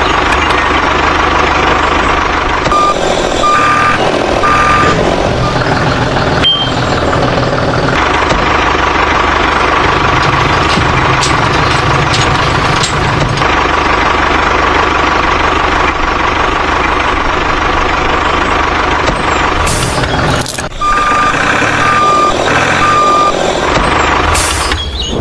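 Vehicle reversing alarm sounding repeated high beeps at one pitch, in runs near the start and near the end, over a steady low engine rumble.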